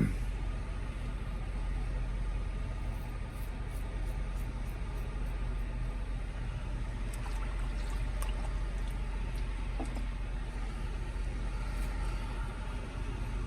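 Steady low hum of an idling truck engine heard inside the cab, with faint short scratching ticks of a Merkur 34C safety razor cutting stubble.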